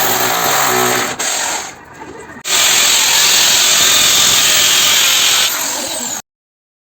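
A power tool working metal in two spells, a short one and then a longer steady run, cutting off abruptly near the end.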